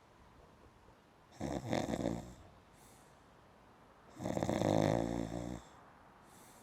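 Two rattly, snore-like breaths, the second one longer.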